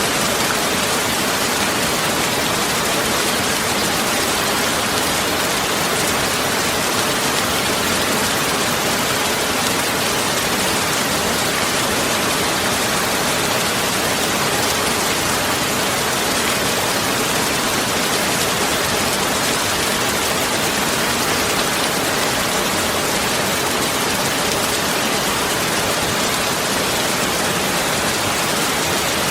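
A steady, even rushing noise that holds the same level throughout, with no separate drops, knocks or tones.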